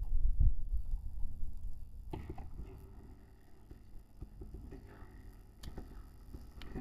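Dirt bike engine running. A low rumble dominates for the first two seconds, after which the engine is fainter, with a few knocks.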